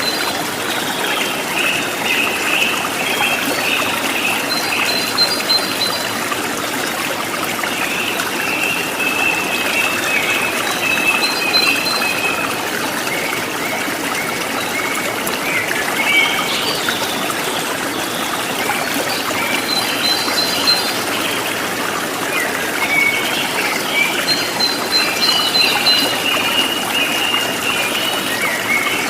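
Running water trickling and splashing steadily in a stream, with birds calling again and again over it in short high phrases.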